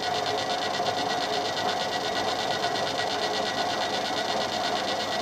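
Machine tool running steadily with a fast, even whirring rhythm, its spindle turning before the cutter is brought down to touch the work.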